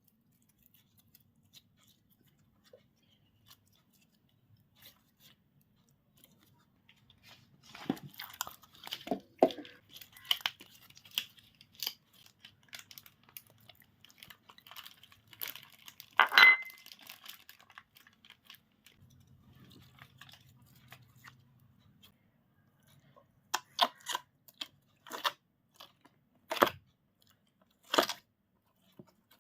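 Slime being worked by hand: crackly, sticky squishing with a loud pop about halfway through and a run of sharp snaps near the end.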